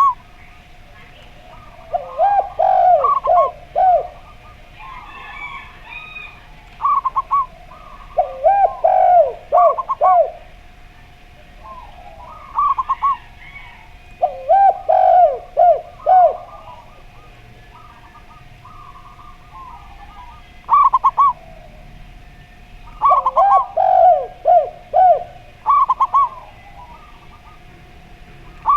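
Zebra dove and spotted dove cooing. Phrases of several quick, looping coo notes, some higher and some lower, come again about every six seconds over a faint steady hum, with faint chirps from other birds in between.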